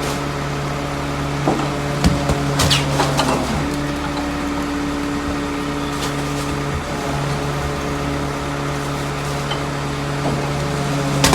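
Rear-loader garbage truck running steadily with a constant hum, with a few knocks and short squeaks from the loading mechanism about two to three and a half seconds in.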